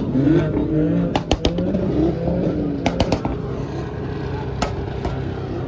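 Car engine running steadily at low pitch, with several sharp cracks in the first five seconds and muffled voices during the first half.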